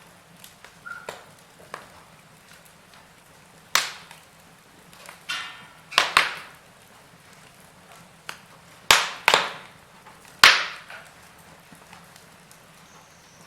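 Wood fire in a fireplace crackling: irregular sharp pops and snaps over a faint steady hiss, with the loudest cracks bunched in the middle of the stretch.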